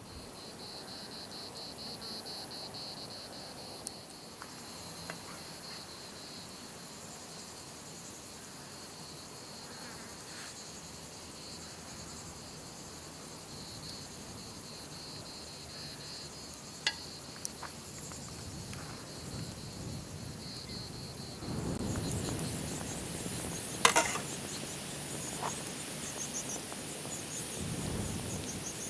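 Crickets chirping steadily in a fast pulsing trill, with a high insect hiss above it. A few sharp clicks stand out, the loudest about three-quarters of the way through, and a low rumble swells and fades twice near the end.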